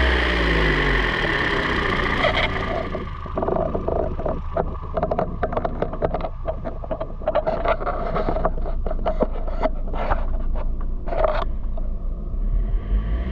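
A 2019 Toyota C-HR 2.0L four-cylinder engine dropping back from a rev to idle at the start, then idling with irregular scraping and knocking noises over it for most of the stretch.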